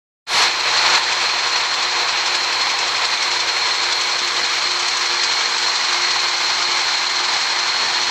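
A machine running steadily, with a thin high whine over a dense hiss and a faint low hum, cutting in abruptly just after the start.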